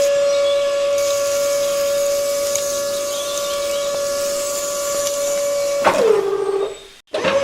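Small electric motor running with a steady whine. About six seconds in it winds down, falling in pitch, and stops, then starts again suddenly near the end.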